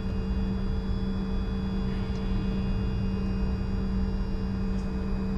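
Steady cockpit drone of a Bombardier Challenger 605 with its CF34 turbofans at low power while it lines up for takeoff: a constant low rumble with a strong steady hum and several faint high whines, and a couple of faint ticks.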